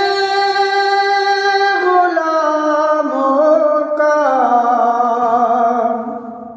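A man singing an Urdu naat solo and unaccompanied, drawing out one long melismatic line of held notes that step down in pitch and fade away near the end.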